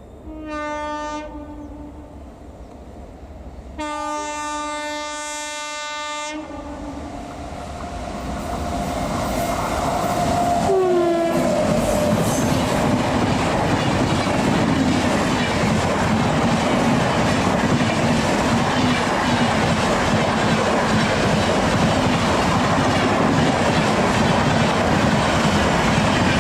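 Indian Railways express train horn: a short blast, then a longer one of about two and a half seconds, as the train approaches. The train then runs through at speed, its noise building and staying loud with rhythmic clickety-clack of wheels over rail joints, and a brief horn note falling in pitch as it arrives.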